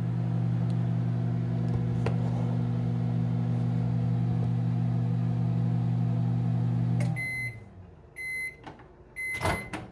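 Commercial Chef countertop microwave running with a steady transformer hum while heating a cup of water. About seven seconds in the hum stops as the cycle ends, and the oven beeps three times, about a second apart. A sharp knock follows near the end.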